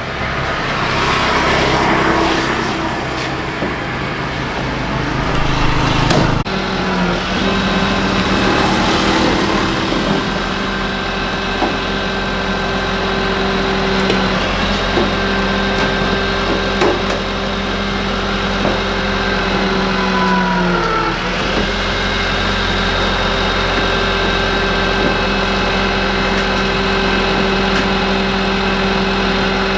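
A motor or engine running with a steady hum; its pitch sags briefly and recovers about twenty seconds in.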